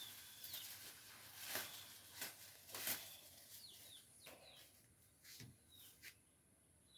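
Faint, scattered sharp clicks and knocks, with short, quick-falling chirps of small birds between them. A steady high hiss runs underneath.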